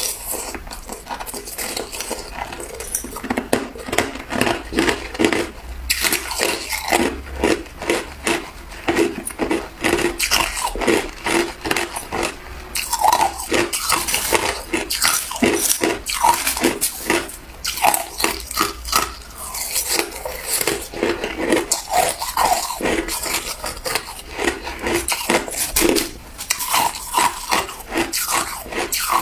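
Ice being bitten and chewed close to the microphone: dense, irregular crunching, several crunches a second.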